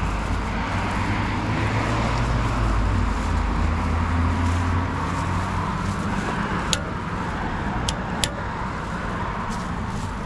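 A motor vehicle's engine running, a low drone that swells over the first few seconds and then eases off. A few sharp clicks come near the end.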